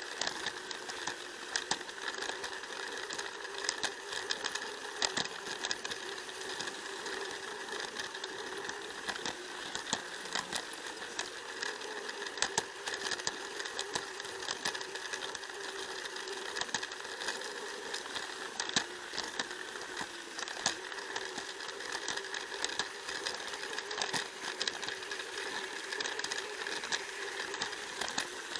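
Plarail toy train's small battery-powered motor whirring steadily as it runs on plastic track, with frequent irregular clicks and rattles from the wheels and cars passing over the track joints.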